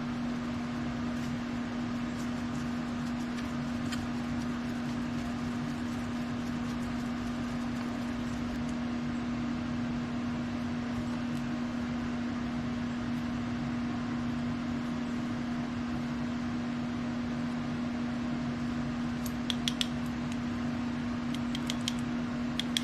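Steady hum of a fan or similar small machine running, holding one even low tone. A few light clicks come near the end.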